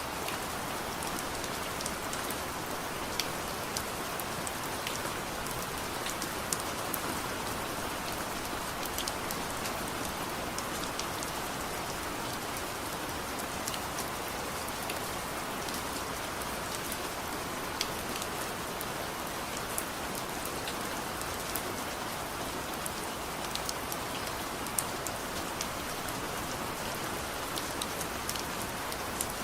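Steady soft rain: a dense, even hiss with scattered sharp clicks and ticks throughout.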